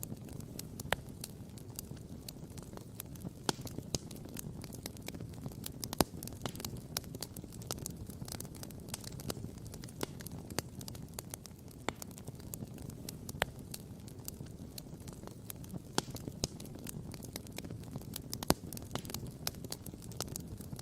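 Wood campfire crackling, with irregular sharp pops and snaps over a low steady rush; two louder pops stand out, about six seconds in and near the end.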